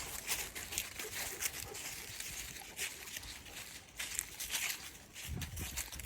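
Footsteps crunching and rustling through dry ground cover in an irregular run of crisp crackles, with a low rumble near the end.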